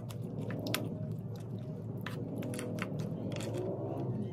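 Close-miked chewing and crunching of sea grapes and sea snails, with many sharp clicks scattered through it.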